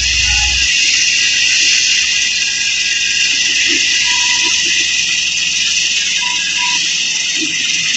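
A steady, loud, high-pitched chorus of insects, like cicadas or crickets chirring, with frogs likely calling in it.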